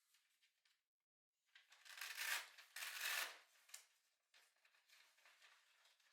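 Rustling and scraping from handling the parts of a compact solo fire pit. The sounds are loudest a second or two in, then fade to fainter rustles.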